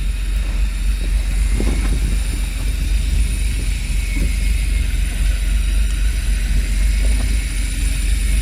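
Steady low rumble of a fishing boat's engine running, with a faint hiss and a few small knocks over it.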